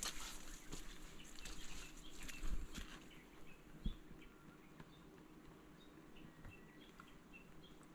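Light rain pattering and dripping, loudest in the first few seconds, with a few soft thumps. Faint, short, high bird chirps come in scattered through the second half.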